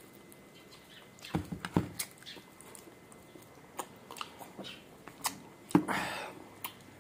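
Close-miked chewing and crunching of crispy fried pork, with scattered wet mouth clicks and crunches. The loudest crunch comes just before six seconds in, followed by a short rustle.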